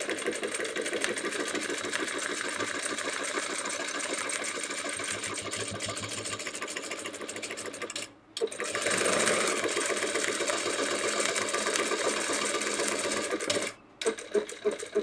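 Sewing machine stitching at a fast, even pace while free-motion quilting circles. It stops briefly about halfway, restarts a little louder, and stops again near the end.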